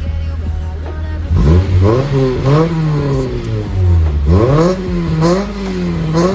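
Acura Integra four-cylinder engine breathing through an HKS Hi Power cat-back exhaust, idling and then revved twice. Each rev climbs quickly and drops back slowly toward idle.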